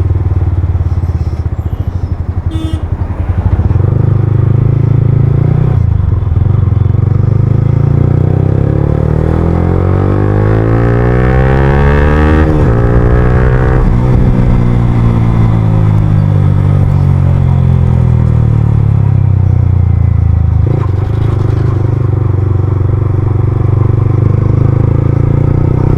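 Yamaha R15M's single-cylinder engine through an Akrapovic full-system exhaust while riding: after a steady stretch, the revs climb for several seconds to a peak about halfway through, then drop and wind down gradually before settling to a steady cruise.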